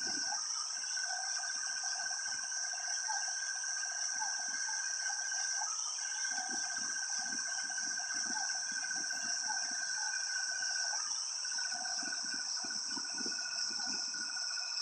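Insects calling in a steady, dense, high-pitched chorus, with a lower, steady trill that breaks off twice. Faint low sounds come and go underneath.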